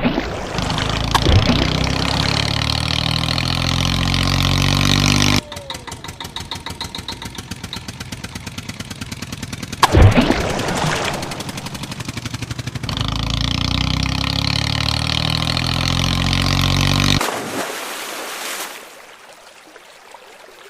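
Heavy vehicle engine sounds: the engine revs with rising pitch, then chugs in fast even pulses, then revs again before dropping away near the end. There are a few sharp knocks, the loudest about ten seconds in.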